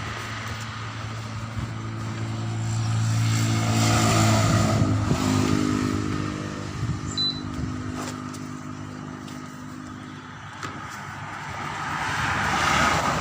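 A motor vehicle's engine passing by: it grows louder to a peak about four seconds in, drops in pitch as it goes past, and fades away, with a second vehicle approaching near the end.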